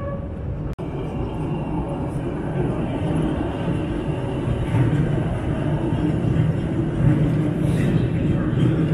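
Elevated metro train running on the rails as it rounds a curve, getting louder about halfway through as it draws near. A momentary break in the sound comes less than a second in.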